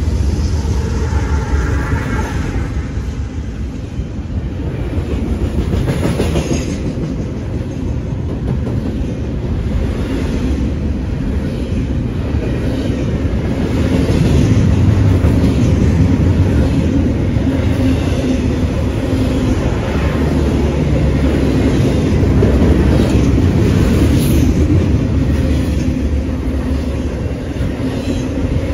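Train rolling through the station: a loud, steady low rumble of wheels and cars, with clicks and clatter as the wheels pass over rail joints.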